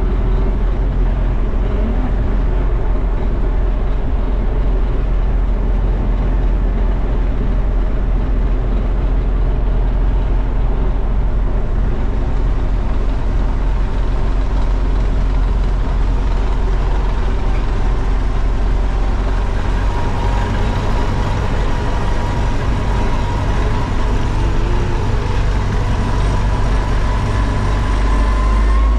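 Zmaj 142 combine harvester's engine running steadily with a deep drone, and a whine that slowly rises in pitch over the last several seconds.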